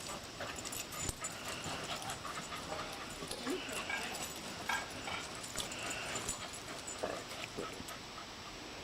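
Two dogs, a terrier mix and a Pembroke Welsh Corgi, play-fighting: scattered short dog cries mixed with sharp scuffling clicks.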